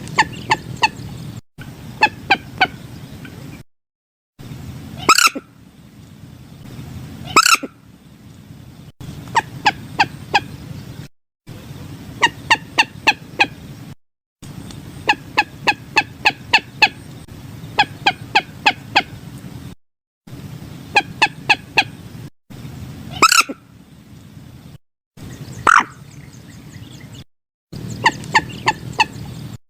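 Common moorhen calls from a looped lure recording: repeated bursts of several sharp, clipped notes in quick succession, and now and then a single longer, harsher call that falls in pitch. Abrupt short silences between segments are edit cuts in the loop, over a low steady background hiss.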